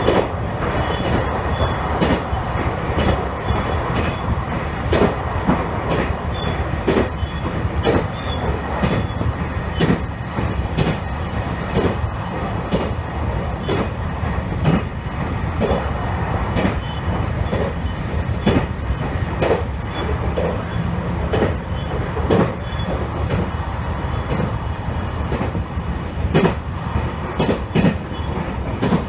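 Train running along the line: a steady rumble of the wheels on the rails, with repeated clicks and knocks as they pass over rail joints, heard from on board.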